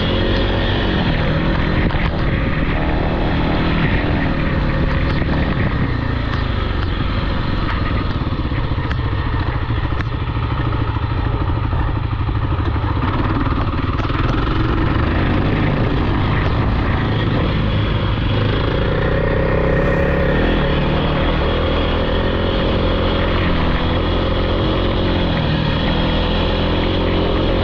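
Off-road vehicle engine, dirt bike or quad, running continuously with its pitch rising and falling as the throttle changes.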